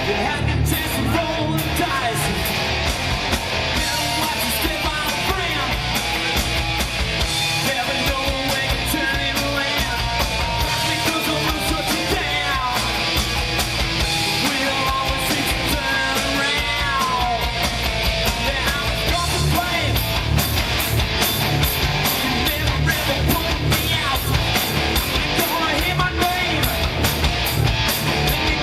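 Rough, low-fidelity recording of a hard rock band playing: electric guitar, bass and drums pounding on steadily, with a voice singing or yelling over them for a stretch in the middle.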